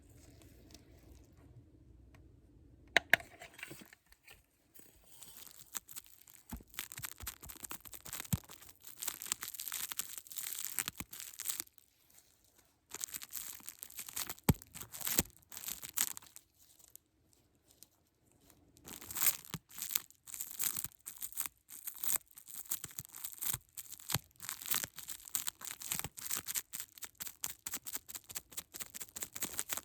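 Close-up crinkling and rustling of a crinkly material handled in many quick bursts, with a couple of short pauses. Two sharp clicks come about three seconds in.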